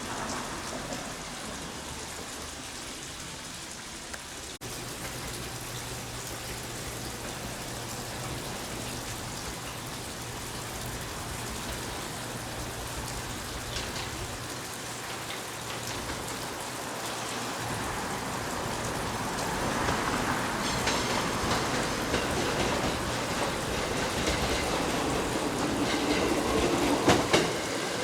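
Steady rain falling, with a train approaching over the last several seconds, growing louder, and a few sharp clicks of wheels over rail joints near the end.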